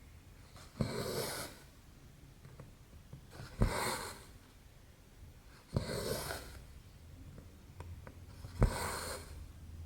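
Cross-stitch needle and thread worked through 11-count stamped cross-stitch canvas: four stitches, each a sharp tap of the needle followed by a short scratchy swish as the thread is pulled through.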